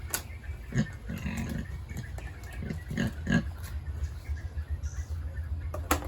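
Pigs grunting in a string of short, low grunts, with a couple of sharp clicks and a steady low hum underneath.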